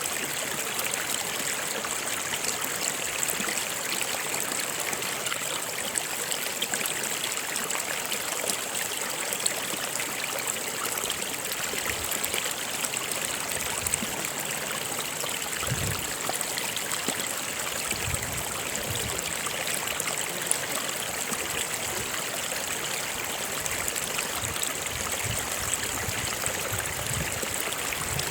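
A stream of water running steadily over rocks, an even rushing with a trickling edge. A few soft low thumps come about halfway through.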